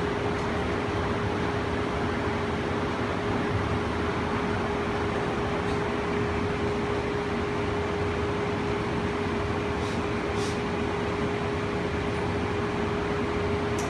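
Steady running noise heard inside the cabin of the BART Oakland Airport Connector, a cable-hauled people mover, under way at cruising speed, with one constant hum held steady throughout.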